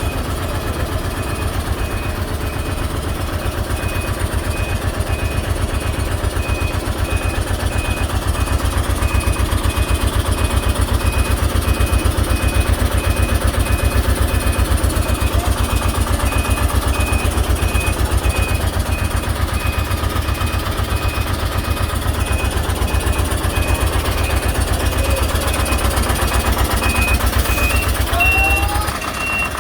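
Heavy diesel engine running with a fast low throb, under a vehicle's reversing alarm sounding as short, high, evenly repeated beeps. Near the end the beeping shifts to a slightly higher, longer tone.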